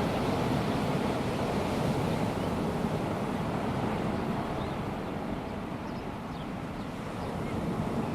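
Gentle surf of a calm sea washing onto a sandy beach: a steady wash of noise that eases a little past the middle and builds again near the end.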